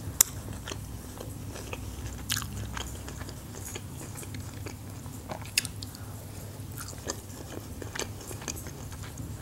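Close-miked eating: chewing and biting, with scattered short, sharp mouth clicks and smacks, over a steady low hum.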